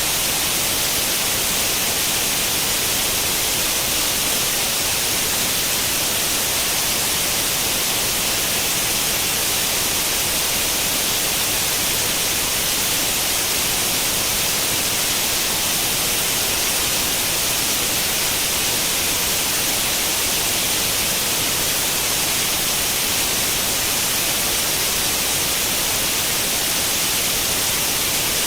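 Steady white noise, a constant hiss brightest in the high end, like the static of an old tube television tuned to no channel.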